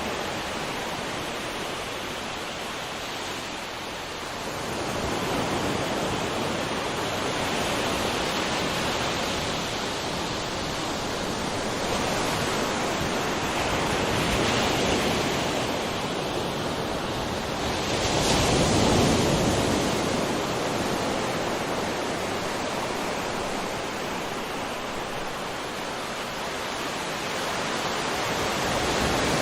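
Sea waves breaking on a shore in a steady wash of surf, swelling and easing every few seconds, with a bigger wave about two-thirds of the way through.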